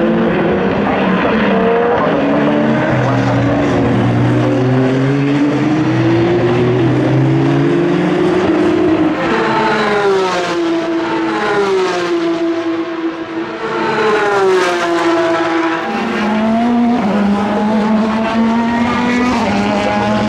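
Endurance race cars running past on the circuit, their engines revving and changing gear, the pitch sliding up and down. Louder passes come about ten seconds in and again around fifteen seconds, each falling in pitch as the car goes by.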